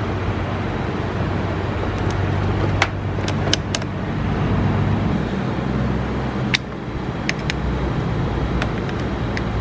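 A vehicle engine idling steadily, with a few sharp clicks over it.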